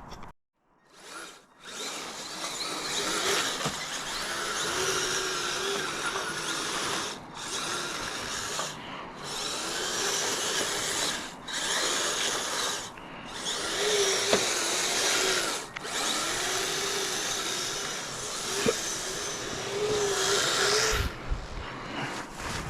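The dual Traxxas 380 brushed electric motors of a Kyosho Blizzard RC tracked vehicle whining under throttle as it drives on metal tracks. The sound runs in spurts, cutting out briefly about five times as the throttle is let off, then picking up again.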